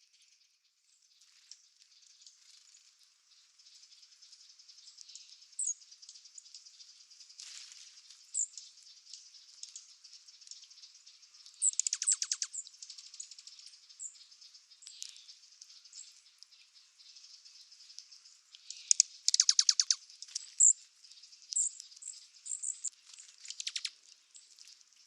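Douglas's squirrel giving its rapid rattling trill call twice, amid short high chirps.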